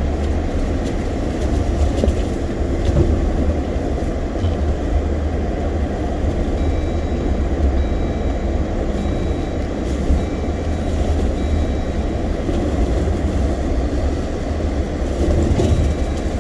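Steady low rumble of a vehicle driving, with continuous engine and rolling noise.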